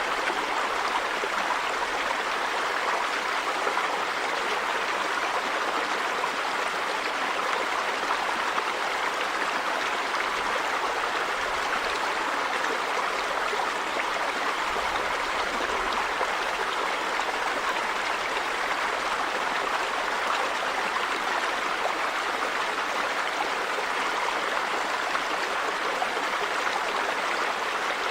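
River water running over rocks in a steady, unbroken rush.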